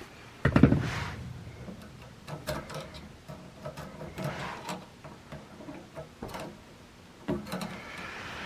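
Handling noises while working on the water heater: a loud knock about half a second in, then scattered clicks, rubbing and light knocks of tools and parts, and another knock near the end.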